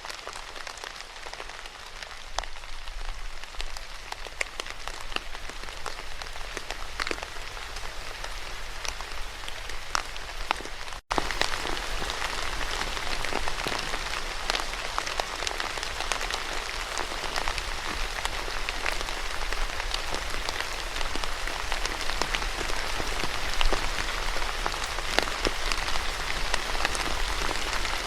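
Steady rain falling, with many separate drops ticking sharply on a hard surface. About eleven seconds in the sound breaks off for an instant, then comes back louder and denser.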